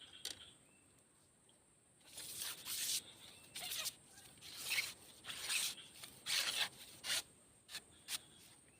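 A series of short rustling, scraping noises about once a second, followed by two sharp clicks near the end.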